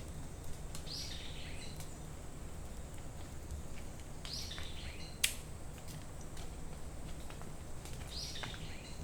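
A bird calling three times, each a short call sweeping down in pitch, about four seconds apart, over a steady low background hum. A single sharp click sounds a little past halfway.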